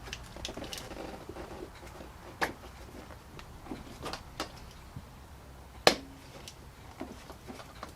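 Scattered light clicks and knocks of hard plastic as a car headlight unit is handled and worked on by hand, with one sharper knock about six seconds in.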